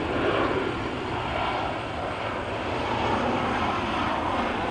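Jet airliner engines running, a steady rushing noise with no clear change in pitch.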